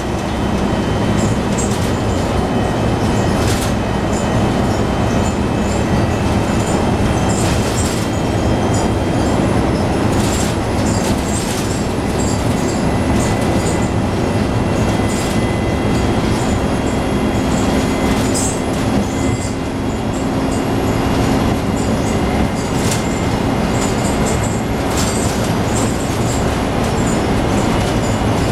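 Scania N113 bus in motion, heard from on board: a steady engine and drivetrain drone that rises a little about two-thirds of the way through, thin high whines, and frequent rattles and knocks.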